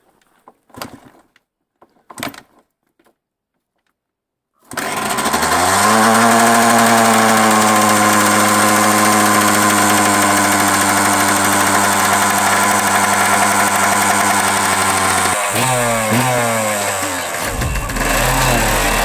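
Two knocks of the kick-starter, then the Yamaha YZ125's single-cylinder two-stroke engine catching and rising to a fast, steady idle on choke. Near the end the revs are blipped up and down.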